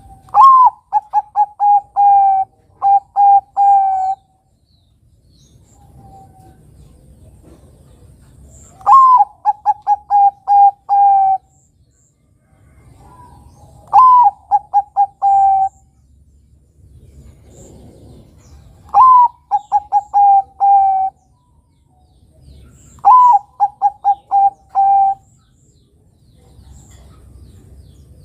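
Zebra dove (perkutut, Bangkok type) singing: five cooing phrases a few seconds apart, each opening with a higher falling note followed by a quick run of short coos and a longer final coo.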